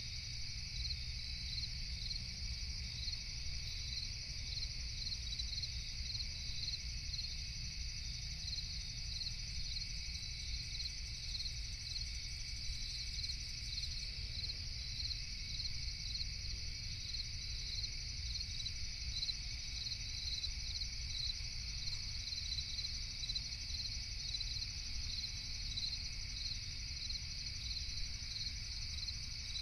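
Crickets chirping steadily in a night chorus, with chirps pulsing about twice a second, over a constant low rumble.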